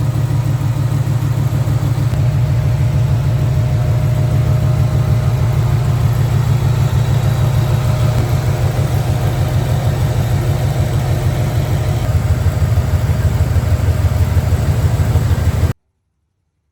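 1994 Camaro Z28's LT1 V8 idling steadily and smoothly on its new alternator and serpentine belt, with a deep even pulse. It cuts off abruptly near the end.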